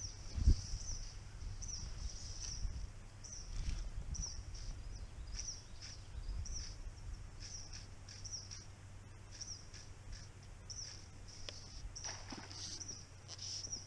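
A bird chirping over and over, short high chirps about once a second, over a low rumble of wind on the microphone. A single thump about half a second in.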